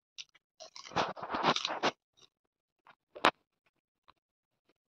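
Close-up chewing of a mouthful of raw cabbage wrapped around pork, with a dense run of crunches about a second in. Then a few small mouth clicks and one sharp crunch a little after three seconds.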